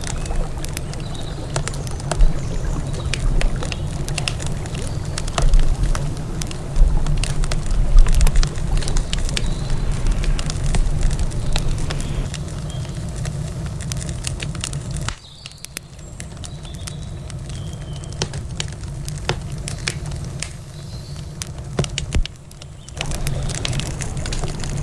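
Wood campfire crackling, with frequent sharp pops and snaps at irregular intervals. Under it there is a steady low rumble that drops away a little past halfway and comes back near the end.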